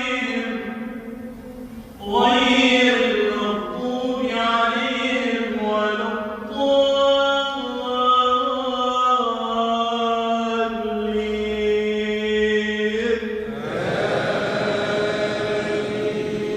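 Imam's melodic Quran recitation during the Maghrib prayer: a single male voice chanting long, ornamented held notes that glide between pitches, with a short breath pause about two seconds in.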